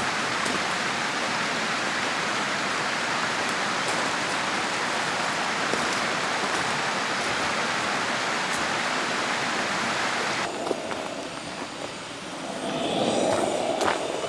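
Mountain stream rushing steadily. About ten seconds in it cuts off suddenly, leaving a quieter background in which a low hum swells near the end.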